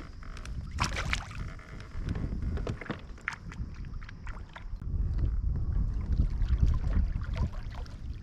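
Small knocks and clatter in a kayak, with wind buffeting the microphone as a low rumble that swells in the second half.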